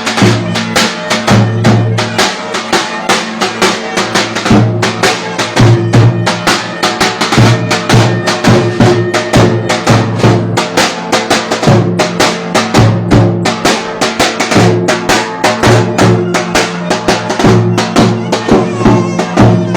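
Turkish folk dance music (oyun havası) played by a live ensemble: a fast, steady drum beat under a sustained melody line.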